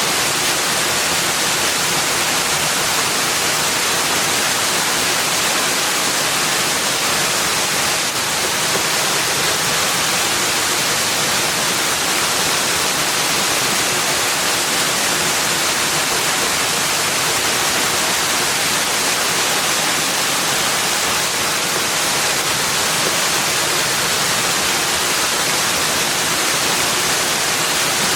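Steady rushing water, an even hiss with no breaks or separate sounds.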